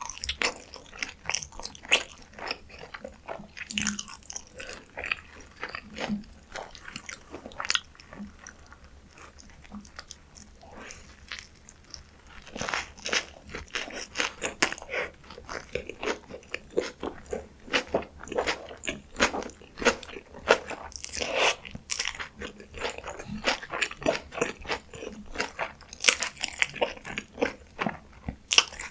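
Close-miked ASMR eating sounds: crunchy bites and chewing of food, a quick run of crackly clicks. It eases off for a few seconds about a third of the way through, then the crunching comes back louder.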